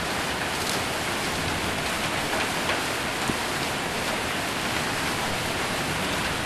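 Heavy rain and hail hammering on a roof: a dense, steady rush with a few sharper single impacts scattered through it.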